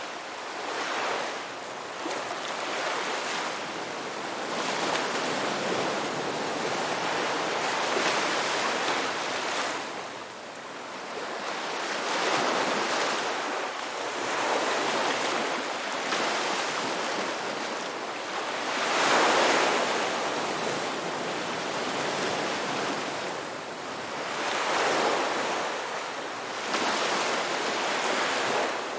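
Sea waves breaking and washing in, a steady rush of surf that swells and ebbs every few seconds, loudest about two-thirds of the way through.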